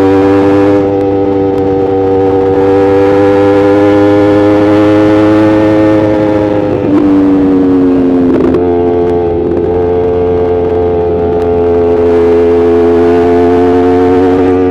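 Yamaha R1 inline-four motorcycle engine running hard at high revs under way, a steady high-pitched howl that drops in pitch in two steps, about seven and eight and a half seconds in, then holds steady again.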